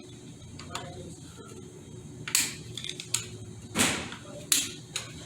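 Metal tools and transmission parts knocking and clanking: about five sharp hits, starting about two seconds in, the loudest near the middle.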